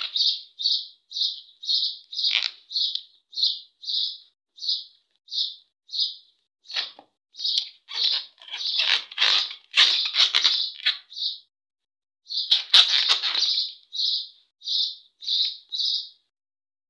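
A small bird chirping over and over, short high chirps about twice a second. Around the middle there are bursts of rustling from rubber balloons being handled.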